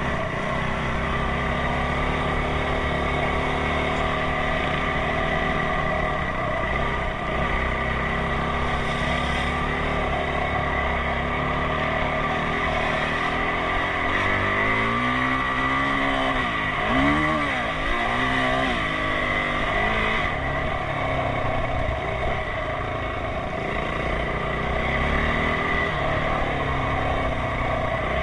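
Enduro motorcycle engine running steadily under way. About halfway through, a set of engine tones rises and falls in pitch for a few seconds.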